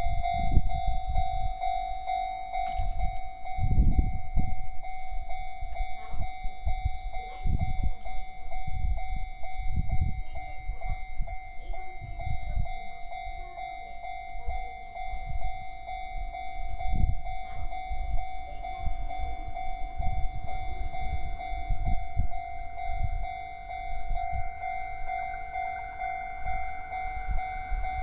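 Railway level-crossing warning bell ringing steadily, with irregular low rumbles throughout.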